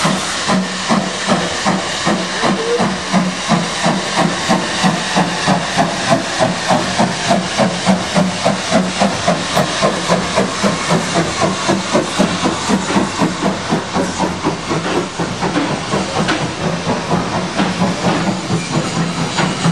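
Steam locomotive working under steam: its exhaust beats come at an even rhythm of about three a second over a steady hiss of steam.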